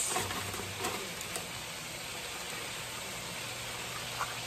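Diced pork offal and garlic sizzling steadily in a frying pan, with a few faint light ticks in the first second or so.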